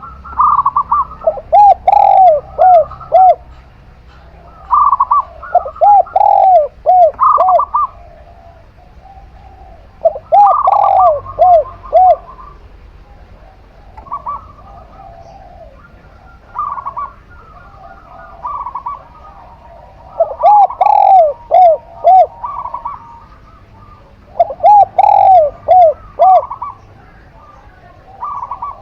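Zebra dove (perkutut) and spotted dove (tekukur) cooing, in bouts of rounded, repeated coo notes every few seconds with short pauses between. The calls come at two pitches, a lower run of quick arching notes and a higher set of notes.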